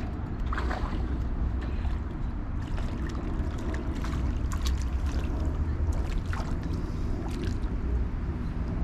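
Wind buffeting the microphone, a steady low rumble, with a few faint ticks scattered through the middle.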